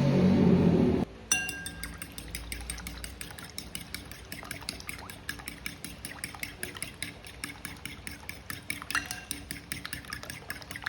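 Background music for about a second, then a kitchen utensil clinking against cookware: one sharp ringing clink, then quick repeated taps of about five a second, as in stirring or mixing.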